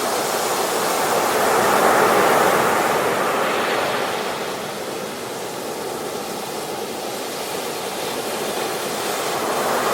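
A steady rushing noise, like surf or running water, that swells about two seconds in, eases off midway and builds again near the end.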